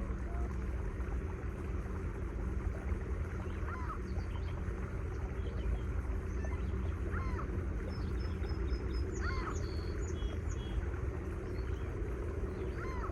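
A steady low machinery hum with a constant drone, with a bird giving short rising-and-falling calls about every three seconds and a brief run of higher chirps about two-thirds of the way through.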